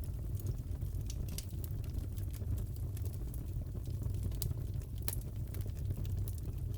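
Fireplace crackling: a steady low rumble of the burning fire with sharp pops scattered at random, one louder pop about five seconds in.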